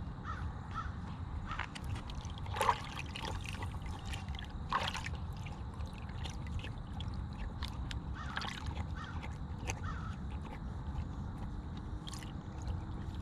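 Scattered short bird calls, with louder squawks about three and five seconds in, over a steady low rumble.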